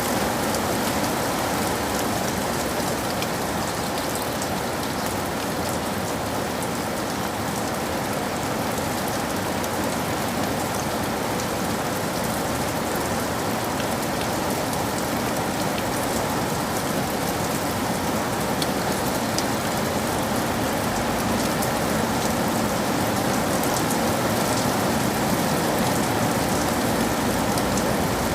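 Steady rain falling, a continuous hiss scattered with the small ticks of individual drops.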